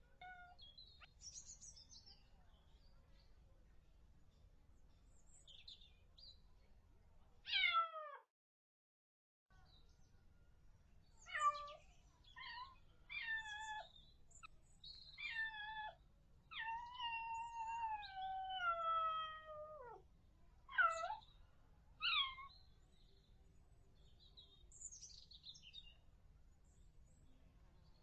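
Kitten meowing repeatedly: about nine high meows, each falling in pitch, one alone and then a run of them, among them one long drawn-out meow.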